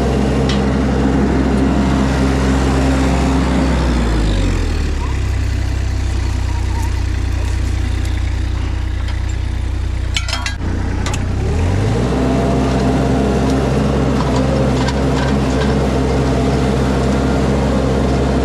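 Mini skid steer's engine running hard while pulling out a shrub. Its speed dips about four seconds in and comes back up about twelve seconds in, with a brief crackle in between.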